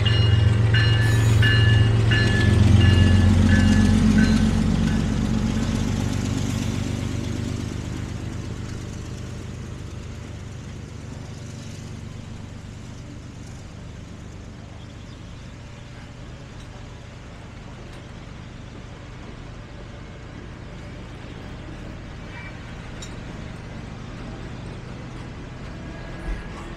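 Train rumbling and fading away over the first several seconds, with a bell ringing about twice a second at the start that stops about four seconds in. After that only a low steady background remains.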